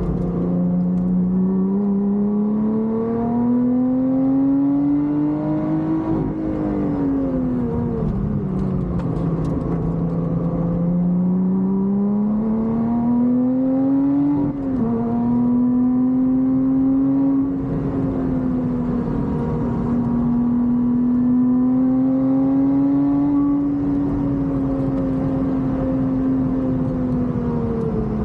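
Supercharged V6 of a Lotus Exige 420 Final Edition, heard from inside the cabin while being driven hard on track. The engine note climbs with revs for several seconds, falls away as the driver lifts, climbs again to a quick gear change about fourteen seconds in, then holds high before easing off near the end.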